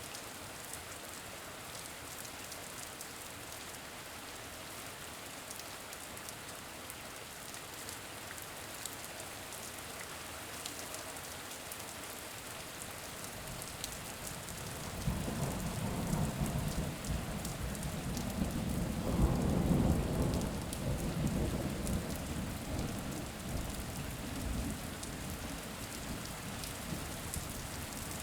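Steady rain falling, with a long, low roll of thunder that begins about halfway through, is loudest a few seconds later, then slowly fades.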